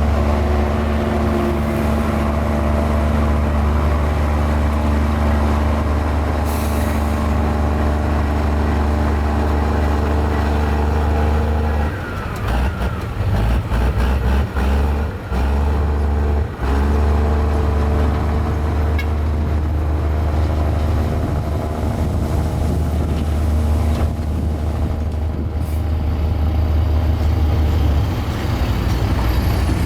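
Diesel engine of a mini Komatsu bulldozer running steadily under load, with its note breaking up and wavering for a few seconds midway before settling again.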